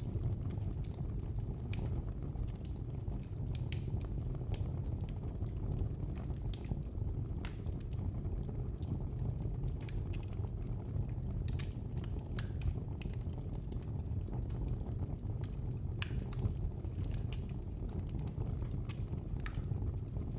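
Wood fire burning in a fireplace: a steady low rumble of flames with sharp crackles and pops, about one or two a second.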